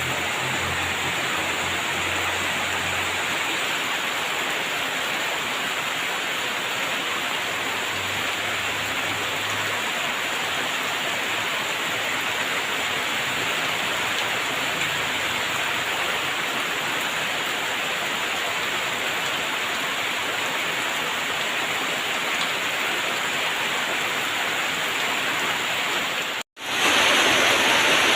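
Steady heavy rain, an even hiss. About 26 seconds in it cuts out for an instant and resumes louder and brighter.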